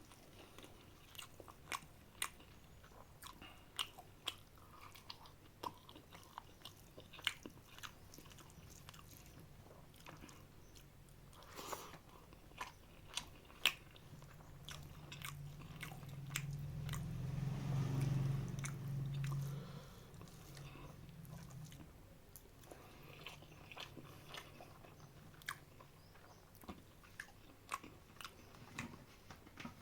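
Close-up eating sounds: a person chewing and biting chicken biryani with curry, with many short wet mouth clicks and smacks. About halfway through, a low rumble swells for several seconds and fades.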